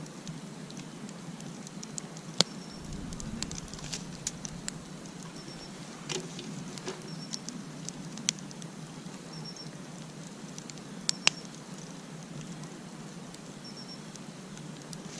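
Wood campfire crackling over a steady low hiss, with sharp pops every few seconds; the loudest come about two seconds in and near eleven seconds.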